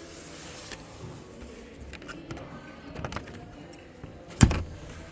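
Steady background hubbub with one sharp, loud knock about four and a half seconds in.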